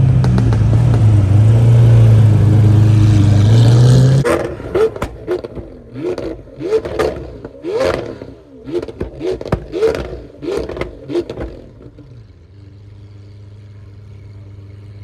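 Car engines: a loud, steady engine drone for about four seconds cuts off abruptly. Then an engine is blipped about ten times, each rev rising and falling in pitch, about once a second, with sharp cracks among them. It settles into a quieter steady idle near the end.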